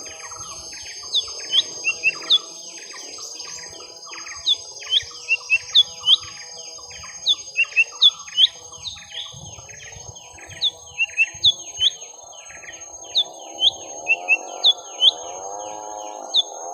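Young lesser green leafbirds (cucak ijo mini) in a long back-and-forth calling fight: clusters of sharp, down-slurred chirps over busy twittering. Near the end a lower, wavering call repeats underneath.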